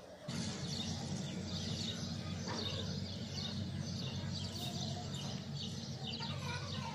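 Birds chirping, with many short high chirps throughout, over a steady low hum.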